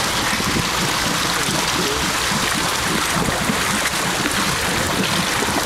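River water rushing and churning steadily around a Jeep Cherokee XJ as it wades through water up to its headlights.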